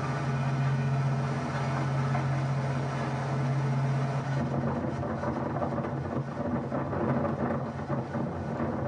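Rocky Mountaineer passenger train running along the track, heard from inside a carriage. A steady low hum stops about four seconds in, leaving an uneven rumble with rattling.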